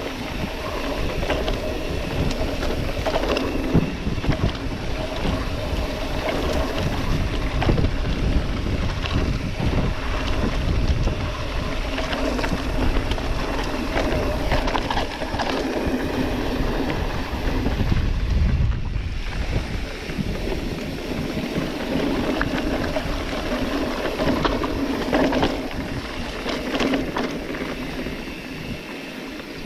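Mountain bike riding over a rough dirt trail: wind buffeting the microphone as a steady low rumble, with tyres crunching and the bike rattling in many small knocks.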